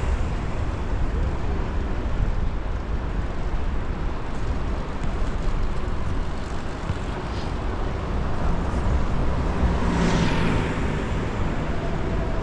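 Wind buffeting the microphone of a bike-mounted action camera while riding, over steady city street traffic. A louder rush of noise swells and fades about ten seconds in.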